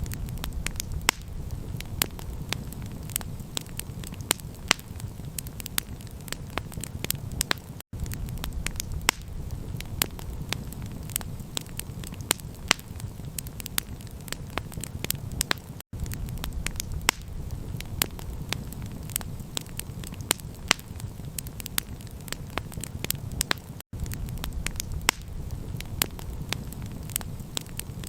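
Wood campfire crackling, with frequent sharp pops and snaps over a steady low rumble. The sound cuts out for an instant about every eight seconds, where a short recording loops.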